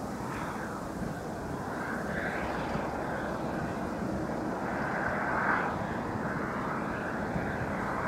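Boeing 737-800's CFM56-7B jet engines running, a steady rush that swells slightly about five seconds in.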